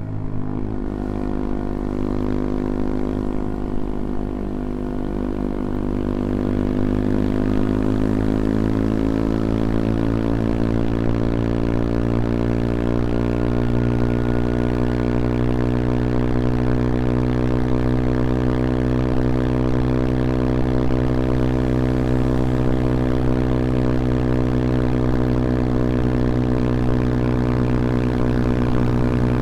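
CFMoto Papio XO-1 small motorcycle engine running under way. Its revs climb gradually for a few seconds and then hold steady at a cruising pitch.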